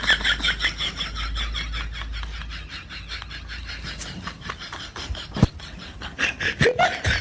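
Besan-battered vegetable fritters (pakoras) sizzling in hot oil in a kadhai, with many sharp crackles throughout.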